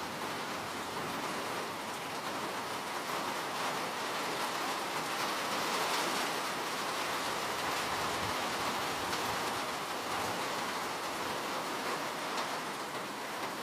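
Steady rain falling, a dense even hiss with fine patter of drops and no breaks.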